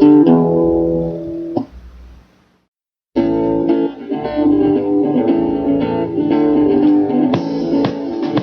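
Guitar ending a song on a held chord that fades out over about two seconds, then a short silence. About three seconds in, guitar playing starts again with a new run of picked notes and strums.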